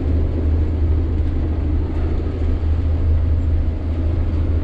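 Sany 6x4 dump truck's diesel engine running steadily while driving, a deep even drone with road noise.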